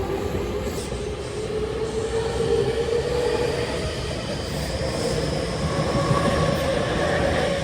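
Electric commuter train with a motor whine that rises slowly in pitch as it picks up speed, over steady rail and running noise.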